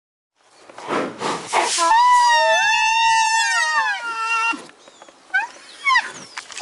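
White rhinoceros calling: a few short huffing grunts, then about two seconds in a long, high, wavering squeal that rises and falls, followed by two short rising squeaks.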